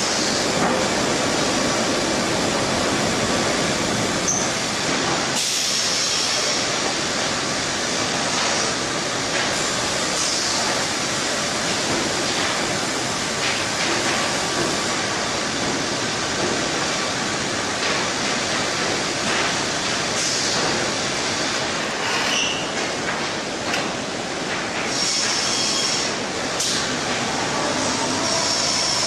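Loud, steady industrial machinery noise from a sawmill running, with a few brief high-pitched squeals.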